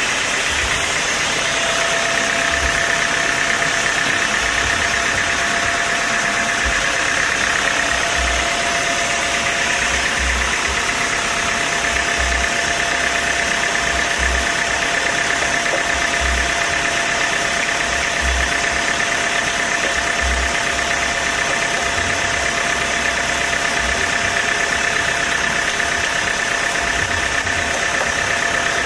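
A machine's motor running steadily at an even pitch, with a steady whine over a constant noise and irregular low thumps.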